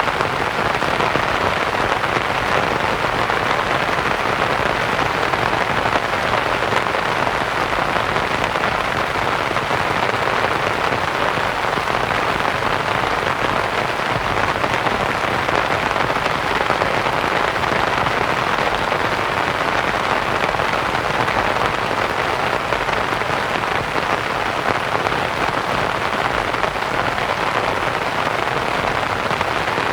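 Steady rain pattering on a canvas tent, blended with a continuous soft white-noise hiss, even and unbroken throughout.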